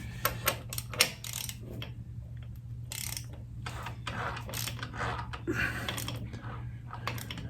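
Ratchet wrench clicking in short irregular runs as the Yamaha Venture's engine is turned over by hand to bring the camshaft lobes to the top for a valve-shim adjustment, over a steady low hum.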